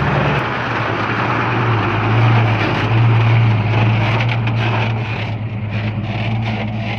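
Diesel engine of heavy earthmoving equipment running steadily, its pitch dropping slightly about half a second in, with a rushing noise over it that eases off after about five seconds.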